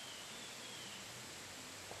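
Steady hiss of outdoor ambience. A faint high whistle slides slightly downward over the first second, and a small click comes near the end.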